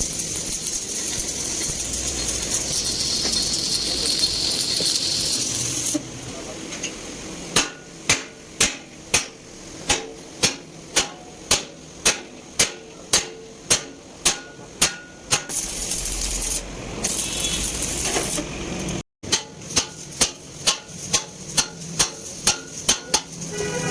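A hammer striking metal in a steady rhythm of about two blows a second, in two runs separated by a short break. The first six seconds hold a steady hiss instead.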